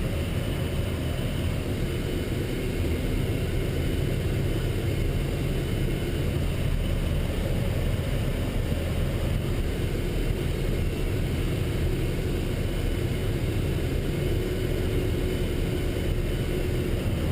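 Military truck driving steadily in a convoy, its engine and road noise making a continuous low rumble, heard from on board.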